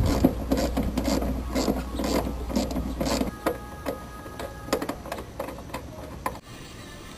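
A run of irregular mechanical clicks and rattles, roughly a couple a second, growing fainter. A low hum under them stops about three seconds in.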